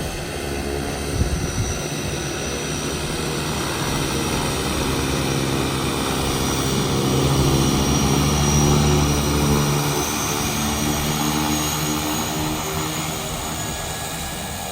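Propeller aircraft engines running steadily, growing louder to a peak about two-thirds of the way through and then fading a little, as the plane moves past on or near the airstrip.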